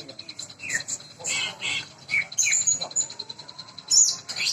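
Greater green leafbird (cucak ijo) singing in contest: a varied run of sharp chirps, quick falling whistles and high whistled notes, with a loud burst near the end.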